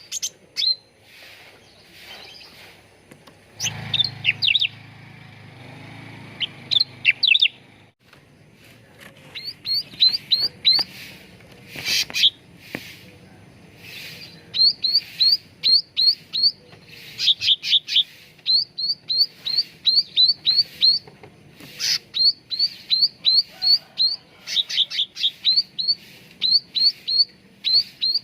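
Cucak ranting songbird calling in quick runs of short, sharp chirps, all at about the same high pitch, several a second, with occasional louder clusters of notes.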